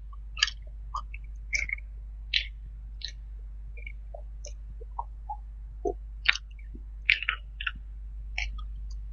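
Close-miked chewing of food for ASMR: irregular short crackly mouth and bite sounds, a few a second, over a steady low hum.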